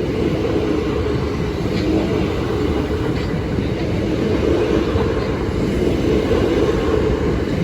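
Southeastern Class 375 Electrostar electric multiple unit, two units coupled, passing close by, with a steady rumble of wheels on rail.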